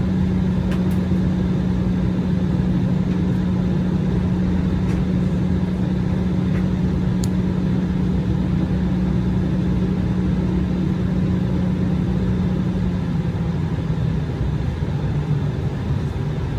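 Cabin noise inside an Embraer regional jet after landing: a steady rumble with a strong low hum that fades out about 13 seconds in, with a few faint clicks.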